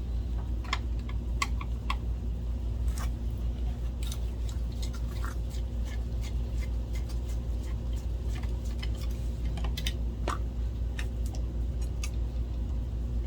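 Scattered light clicks and ticks of small metal parts and a screwdriver being handled while a projector's optical assembly is taken apart, over a steady low hum.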